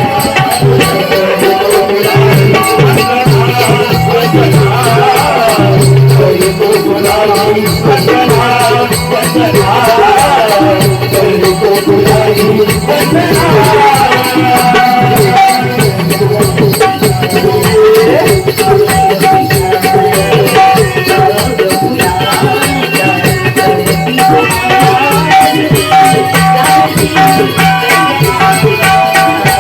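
Live Konkan naman folk music: a fast, even percussion beat with a rattling, shaker-like sound and a held melody line over it.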